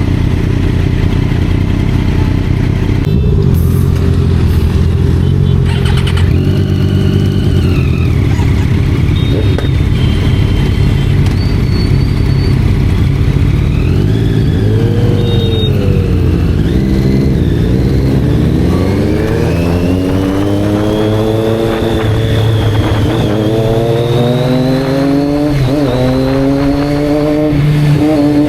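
Sport motorcycle engines running loudly. In the second half the revs climb several times, each climb briefly dropping back before rising again.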